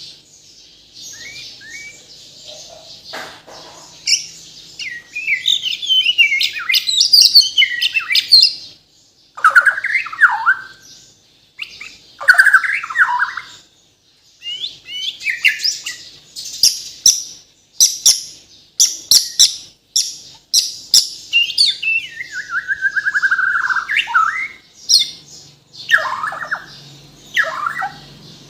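White-rumped shama (Bornean murai batu) singing a long, varied song of whistles, fast trills and sharp clicking notes, packed with mimicked phrases (isian). Near the end comes a long falling run of notes.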